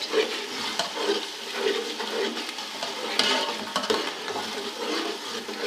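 Onion paste and ginger-garlic paste frying in hot ghee in a large cooking pot, sizzling steadily as it is stirred, with a few knocks of the spoon against the pot.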